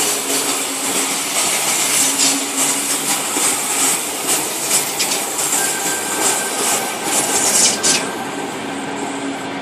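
Sydney Trains Tangara electric train running through the station without stopping, its wheels on the rails making a loud rushing hiss with a rapid run of clicks. The noise drops away about eight seconds in as the train clears.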